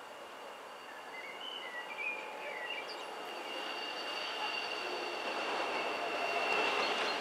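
Freight train approaching on the rails, growing steadily louder, with a steady high wheel squeal setting in about three seconds in.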